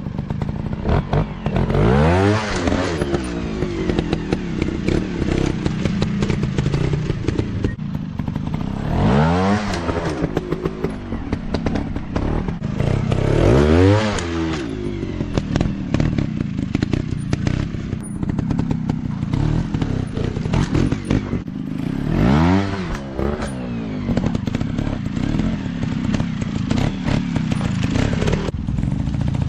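Off-road dirt bike engine revving up and easing back off four or five times over a steady running drone, with clattering and knocks throughout.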